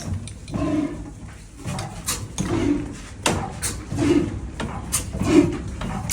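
Old Ruston engine turning slowly and unevenly as it struggles to start in the cold: a puff about every second and a half, with sharp metallic clicks and clanks in between.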